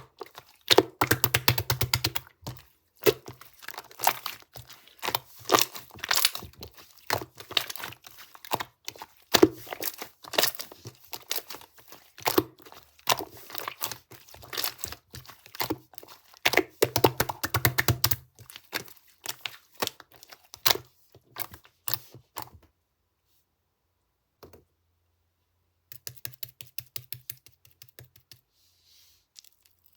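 Slime being squished and stretched by hand, making rapid crackling and popping clicks. The crackling stops about three quarters of the way through, comes back briefly for a couple of seconds, then fades.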